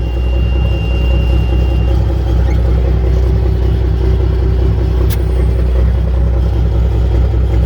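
The M923 5-ton truck's naturally aspirated 14-liter Cummins inline-six diesel running steadily. A steady high beep sounds for the first two seconds, and there is a single sharp click about five seconds in.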